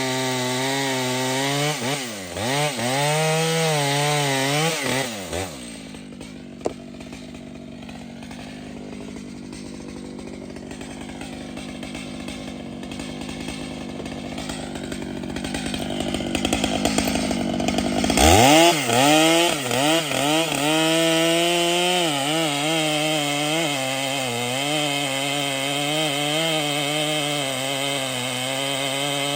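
Large two-stroke chainsaw running: it revs up and down a few times, then goes quieter and rougher for much of the middle. About eighteen seconds in it jumps back up and then runs steadily.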